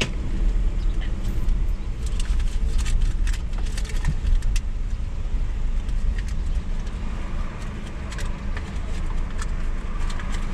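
Car engine idling, a steady low rumble heard from inside the cabin, with scattered light clicks and rattles of small things being handled.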